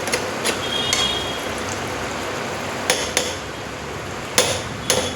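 A metal spoon knocking and scraping against a cooking pot several times while stirring, over a steady sizzle of curry frying in oil.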